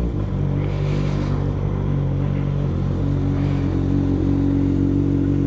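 Kawasaki ZX-6R 636's inline-four engine idling steadily.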